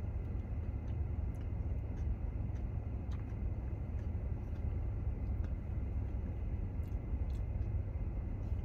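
Steady low rumble inside a parked car's cabin, typical of the engine idling with the ventilation running, with a few faint short clicks over it.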